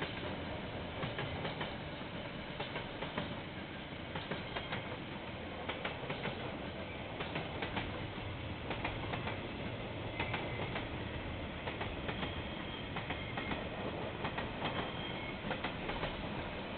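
A train's wagons rolling past, with a steady rumble and irregular clicks from the wheels over the track.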